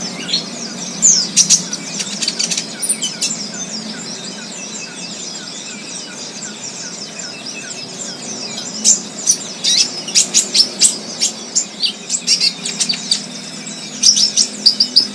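Wild songbirds chirping: many quick, high-pitched chirps in busy bursts, thinning out for a few seconds in the middle and then picking up again from about nine seconds in.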